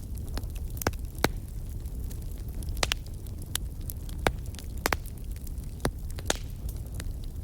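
Wood fire burning in a fireplace: a steady low rumble of the flames with sharp, irregular pops and crackles from the burning logs, several a second at times.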